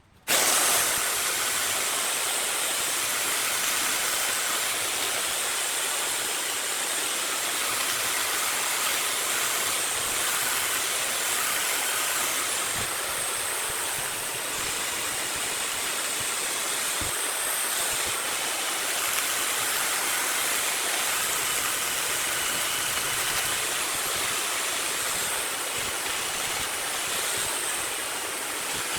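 Wood lathe at work, a steady rushing hiss that starts abruptly and holds evenly throughout.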